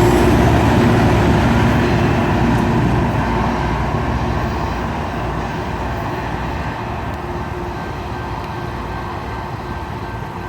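Rail grinder train passing on the track, a steady heavy rumble with a few held tones that fades gradually as it moves away.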